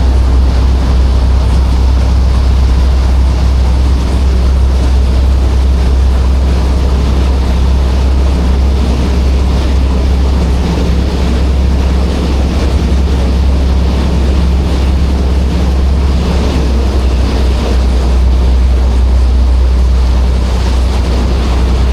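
Steady low engine hum of a Şehir Hatları passenger ferry under way, with an even wash of wind and sea noise over it.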